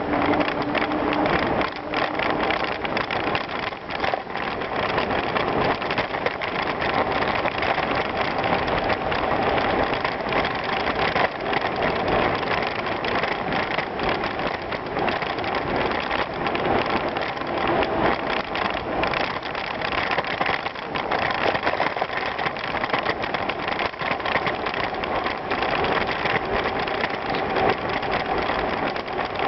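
Bicycle riding over a gravel trail: steady tyre noise on loose gravel with frequent small knocks and rattles from the bike.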